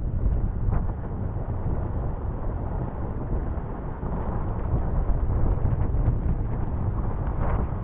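Steady low rumble of a vehicle driving on snowy roads.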